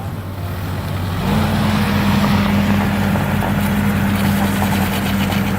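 Diesel engine of a demolition excavator running, stepping up to a louder, heavier drone about a second in as it comes under load, with light clattering of debris in the second half.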